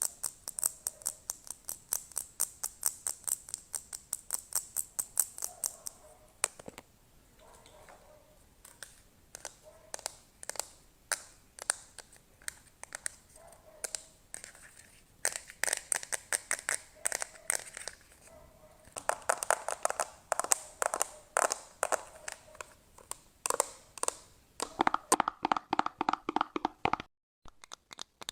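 Close-miked ASMR trigger sounds: quick runs of sharp tapping and scratching strokes, several a second, changing in tone every few seconds, with a brief silence near the end.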